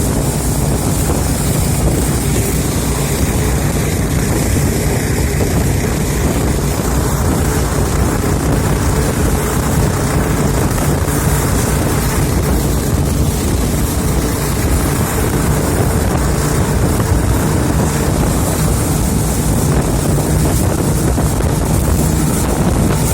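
Motorboat engine running steadily under way, mixed with heavy wind buffeting on the microphone and rushing water.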